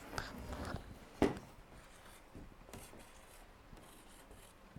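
Faint rubbing of a marker pen writing on a whiteboard, with a single sharp click about a second in.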